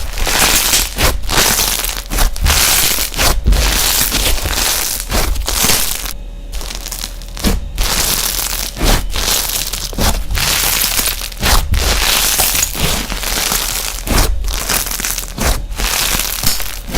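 Crunchy slime being squeezed and pressed by hand: dense crackling and popping in repeated presses, with brief pauses between them and a short gap about six seconds in.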